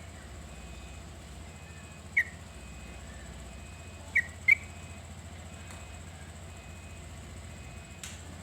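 Yellow-vented bulbul (trucukan) giving short sharp call notes: one about two seconds in and a quick pair about four seconds in, over a steady low hum.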